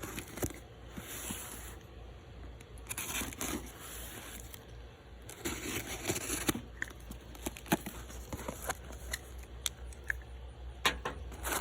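Cardboard shipping box being opened by hand: tape tearing, cardboard rustling, and scattered sharp clicks and knocks.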